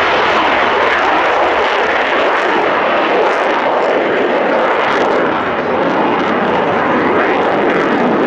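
Eurofighter Typhoon's twin turbofan jet engines running, a loud steady rush of jet noise without any clear pitch.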